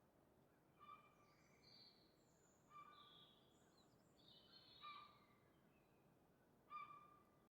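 Faint birdsong: a wild songbird repeats a short, similar song phrase four times, about every two seconds, over a low background hiss. The sound cuts off suddenly at the end.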